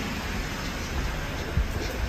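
Car engine running low as the car pulls away inside an enclosed parking garage, a steady rumble, with a single thump about one and a half seconds in.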